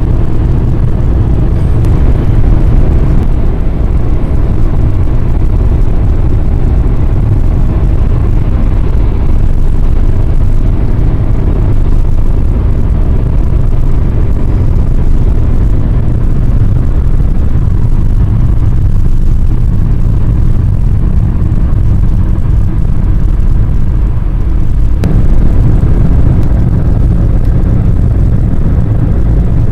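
Flooded river rushing, a loud steady low roar that carries on without a break.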